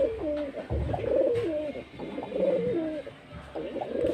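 Racing pigeon cooing over and over, about four coos, each a throaty burst that steps down in pitch at the end.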